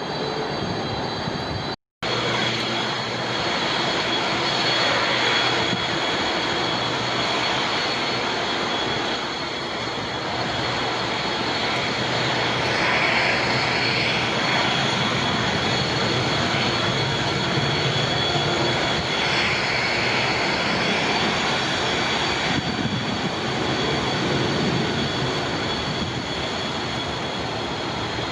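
Jet airliner engines running: a continuous rush of engine noise with a steady high whine. There is a brief total dropout just before two seconds in, where the recording cuts.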